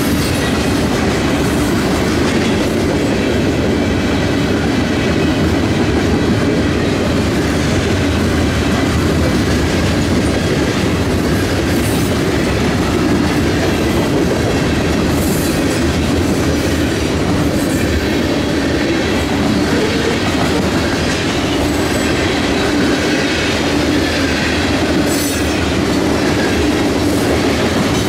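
Railroad cars of a passing train rolling steadily along the track with a continuous rumble, with a few brief sharp high sounds from the wheels now and then.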